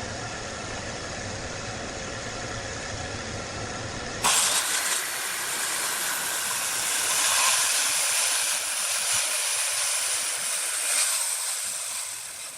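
Workshop power tool noise: a steady machine hum, then about four seconds in a sudden switch to a loud, steady hiss that fades near the end.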